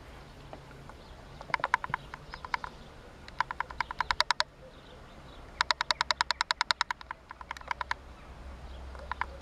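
An animal's rapid pulsed call, most likely a bird: rattling trills of about ten clicks a second, each about a second long, repeated about five times.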